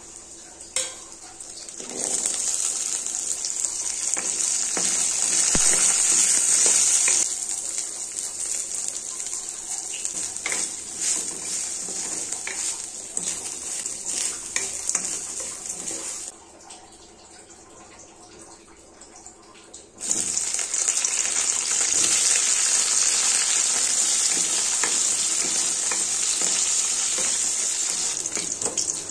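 Food sizzling in a hot pan while a wooden spatula stirs it, with small scraping clicks. First the whole spices, dal, garlic and coconut are being roasted. After a quieter spell, a loud steady sizzle starts about two-thirds of the way in, as small whole brinjals fry in oil.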